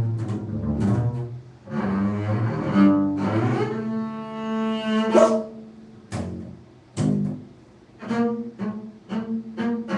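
A low bowed string instrument playing solo in a contemporary piece: held notes with rich overtones, broken by sharp, short attacks about six and seven seconds in.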